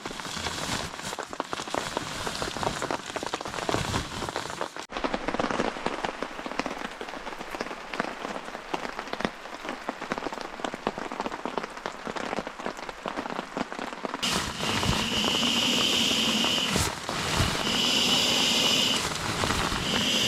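Rain falling, with many small drop impacts. About two-thirds of the way in, a louder, steadier hiss with a high band in it takes over, breaking off briefly twice.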